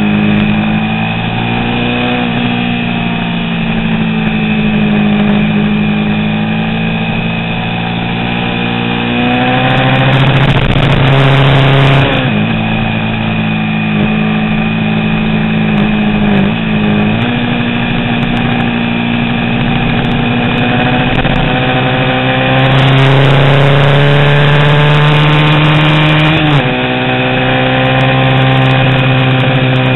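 A 350 cc vintage racing motorcycle engine running hard on track. The revs climb and fall through the gears, with sudden pitch jumps at gear changes about twelve, seventeen and twenty-six seconds in.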